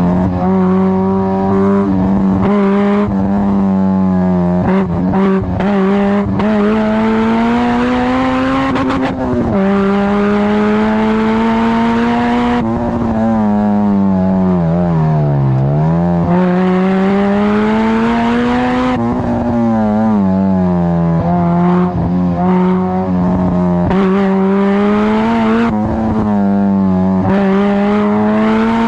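Honda Civic Type R EP3's four-cylinder engine and exhaust running at sustained revs, with a pitch that wavers up and down. About halfway through the revs sink and then climb back.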